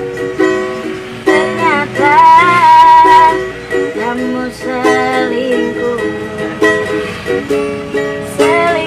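Busker's song accompaniment on a ukulele: repeated strummed and plucked chords between sung lines, with a sliding melodic line about a second in.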